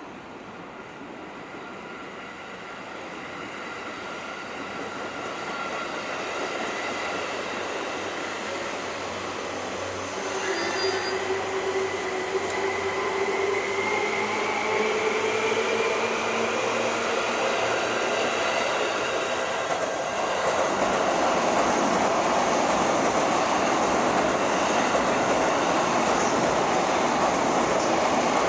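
Electric train approaching and passing through the station. Its running noise builds steadily, with a whine that rises in pitch from about ten seconds in. From about twenty seconds in, the loud, even rumble of wheels on rail takes over as the train goes by close.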